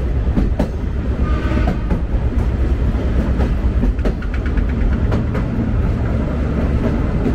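Sagano Romantic Train trolley carriage running along the line: a steady low rumble with irregular sharp clacks of the wheels over the rail joints.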